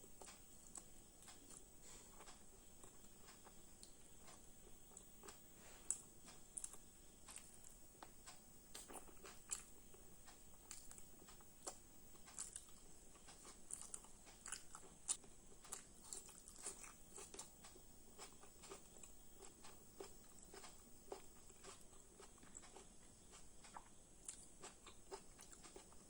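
A person eating: faint chewing with irregular crunching bites and small mouth clicks.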